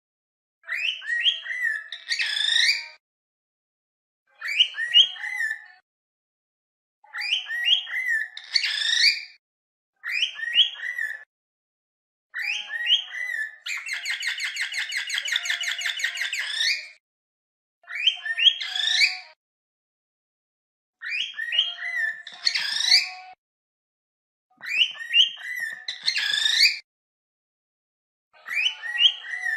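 Cockatiel whistling and chirping in short repeated phrases, one every two to three seconds with brief silences between. In the middle comes a rapid buzzing chatter lasting about three seconds.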